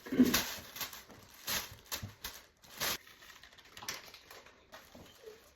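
Beads and a bag being handled: a handful of short, irregular rustles and light clicks, the loudest right at the start.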